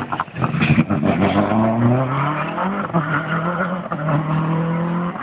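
Rally car engine accelerating hard: the note climbs, drops sharply at a gear change about three seconds in, then holds steady at high revs.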